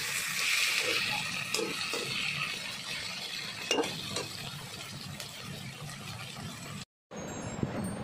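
Sliced okra frying in a pan while a metal spatula stirs and scrapes through it: a steady sizzle with a few clinks of the spatula against the pan. The sound drops out briefly near the end.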